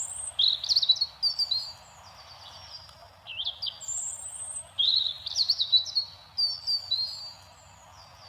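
European robin singing: a fast, high warbling song of short notes that vary in pitch, in two phrases separated by a brief pause about two seconds in.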